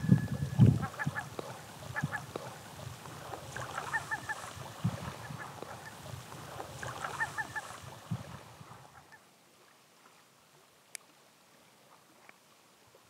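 Birds calling in three quick bursts of short, honking notes over soft lapping of small waves on a pebble shore, dying away to near quiet for the last few seconds.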